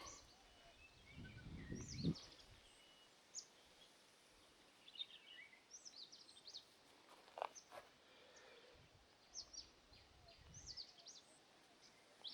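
Near-silent forest ambience with faint, scattered short bird chirps and a brief low rumble between one and two seconds in.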